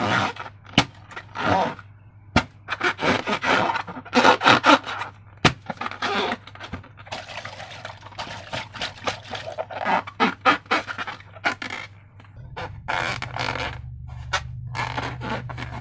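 Slime being worked and squished, giving sticky, crackly squelches and scraping in irregular bursts, with a couple of sharp clicks.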